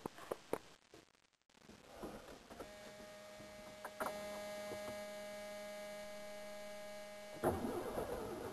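A steady electrical hum with the ignition switched on, then about a second before the end the starter begins cranking the 1985 Ford F-150's inline six on a cold start with the choke held out.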